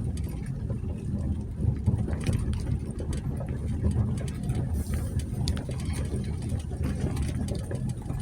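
A 2020 Jeep Gladiator's engine running at low speed with a steady low rumble, driving slowly over a rough dirt trail, with a few sharp clicks and knocks along the way.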